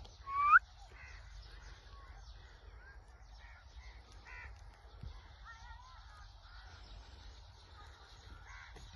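Blue ringneck parrot calling: one loud rising whistle about half a second in, then softer scattered chirps and short sliding whistles.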